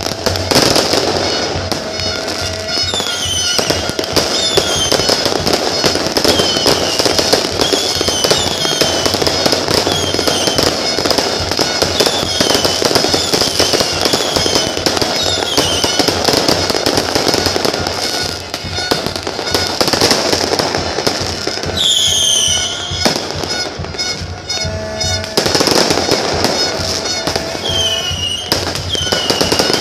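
Fireworks going off without a break in a dense run of bangs and crackles, with high falling whistles about once a second.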